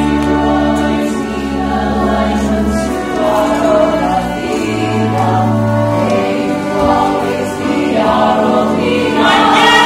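A musical-theatre ensemble singing in chorus over a small pit orchestra, with low held notes from bowed strings underneath.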